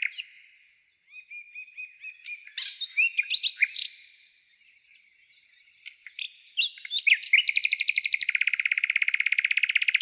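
Songbirds singing: scattered chirps and short whistled phrases, then a long, very fast trill that starts past the middle and is the loudest part.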